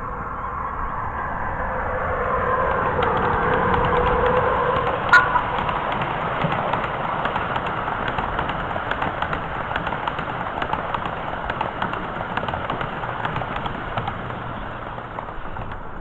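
A miniature railway train running past, getting louder and then slowly fading, with wheels clicking and rattling over the track. A steady squealing tone fades out about five seconds in, just before a sharp click.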